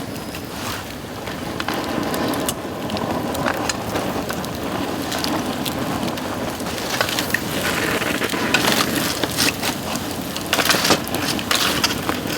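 Bamboo burning in a campfire, a dense, irregular crackle of sharp pops and snaps over a steady noisy hiss.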